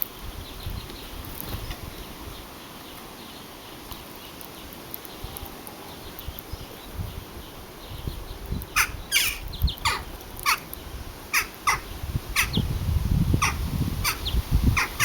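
Birds calling: a quick series of short calls, about one or two a second, beginning around nine seconds in, with a low rumble building from about twelve seconds.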